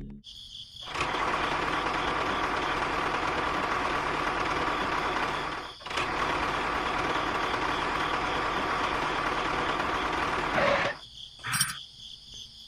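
A small electric motor whirring steadily, with a brief break about six seconds in, then stopping near the end.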